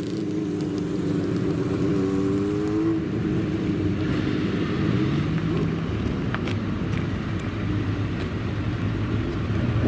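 Sports car engines running, one engine's note rising slowly over the first three seconds, then dropping back.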